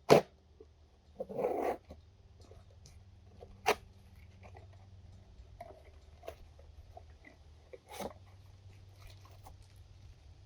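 A dog barking near the start, among a few sharp knocks and clicks.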